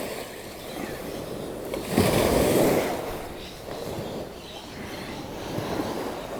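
Ocean surf washing on a beach, with a wave breaking and rushing in about two seconds in.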